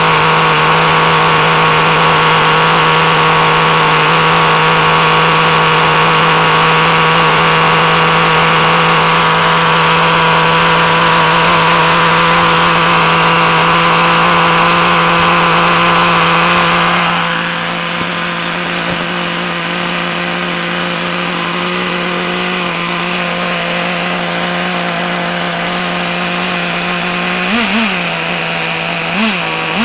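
Traxxas TRX 2.5 nitro engine of a T-Maxx RC truck running on its own at a steady, high-pitched idle just after a cold start. About 17 s in it becomes somewhat quieter, and near the end the pitch jumps up briefly twice.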